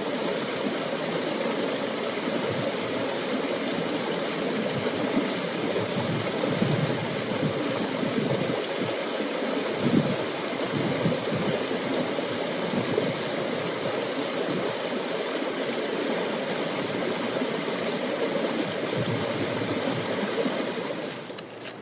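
A stream rushing: a steady, even wash of running water.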